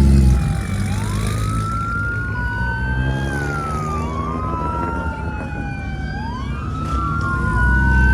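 Police car siren wailing, its pitch slowly rising and falling in long sweeps, over a car engine running close by that grows louder near the end.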